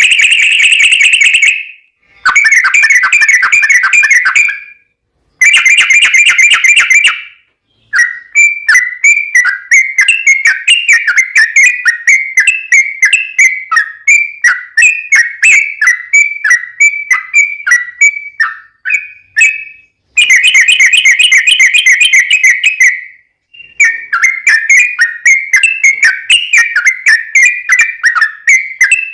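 Yellow-vented bulbul (trucukan) singing loud, long rapid rolls of bubbling whistled notes, in phrases a few seconds long separated by short pauses.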